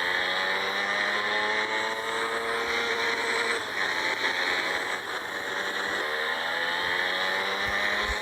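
Motorcycle engine accelerating twice, its note rising in pitch until it falls away about three and a half seconds in, then climbing again from about six seconds in, with a steady hiss of wind and road noise underneath.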